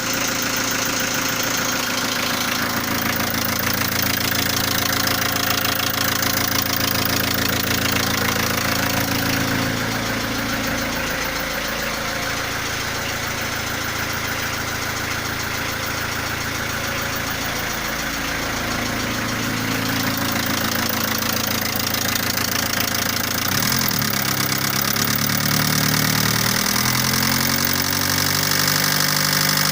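Volkswagen T4's 1.9 ABL four-cylinder diesel running, with a metallic knocking, ringing clatter heard clearly over the diesel's own noise; the owner does not know what is causing it. The engine speed rises a little about twenty-four seconds in and again near the end.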